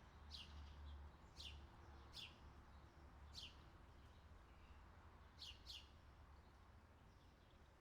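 Faint bird calls: six short, high chirps, each sweeping quickly down in pitch, at uneven intervals, two of them close together about two-thirds of the way through. A low, steady rumble sits underneath.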